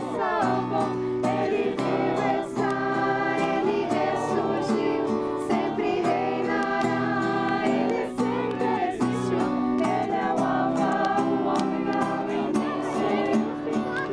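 A group of voices singing a song together in chorus, over steady held accompanying notes.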